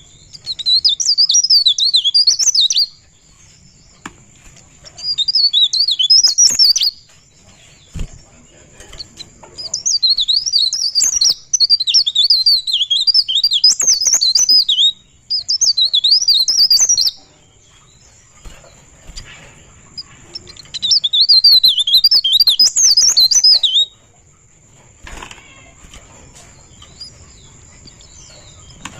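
Pare-pare (cikrak daun) songbird singing in rapid, high twittering phrases, five bursts of two to five seconds each with short pauses between. A faint steady high tone runs underneath.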